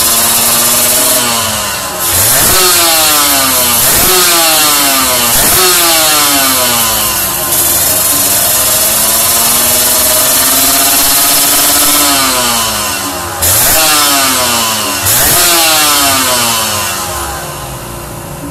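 Kawasaki Ninja R's two-stroke single-cylinder engine revving through a Cream-Pie aftermarket exhaust. The throttle is blipped repeatedly, and each time the pitch shoots up quickly and falls back.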